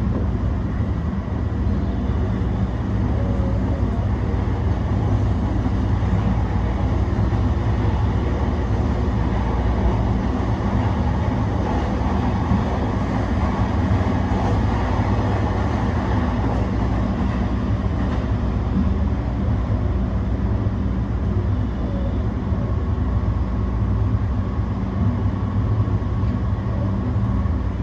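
JR E235 series electric commuter train running: a steady rumble of wheels on rail and the running gear heard from inside the front car. A faint steady whine joins about 22 seconds in.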